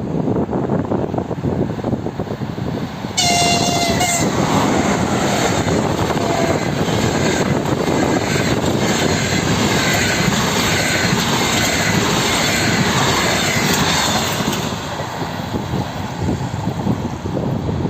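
An EP20 electric locomotive and its double-decker passenger train passing at speed. About three seconds in, the locomotive's horn sounds briefly as the train arrives. About eleven seconds of loud train noise follow as the cars go by, easing near the end.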